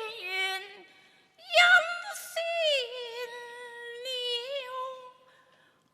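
Cantonese opera music: one high, wavering melodic line that slides between long held notes. It breaks off briefly about a second in and fades out near the end.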